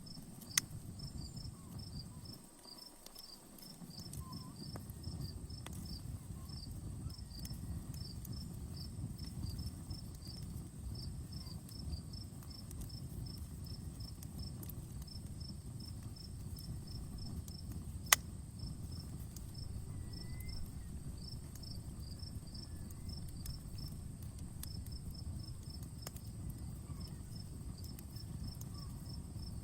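Campfire crackling with faint scattered ticks over a low rushing of flames, and two sharp loud pops, one about half a second in and one around eighteen seconds in. Crickets chirp in a steady, even pulse throughout.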